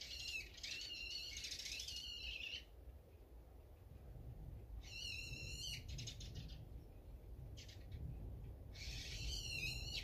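Songbirds calling in three bursts of wavering, high-pitched calls: a longer run at the start, a short one about five seconds in, and another near the end. A low rumble runs underneath.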